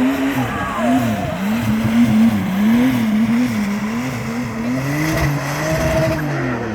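Drift car's engine revving up and down repeatedly as the car drifts. A second, lower engine note joins about five seconds in.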